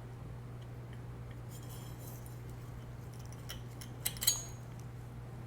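Small metallic clicks and clinks from handling a disco light's lamp parts. They are scattered, with the loudest a sharp clink about four seconds in that rings briefly. A steady low hum runs underneath.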